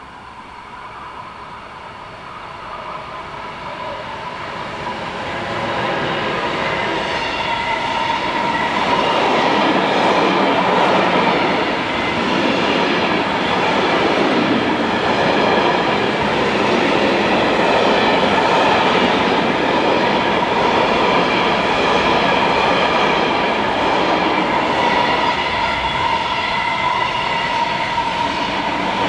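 Container freight train approaching and rolling past close by. It grows louder over the first several seconds as the locomotive arrives, then the wagons pass with a steady loud rolling noise and a steady high whine.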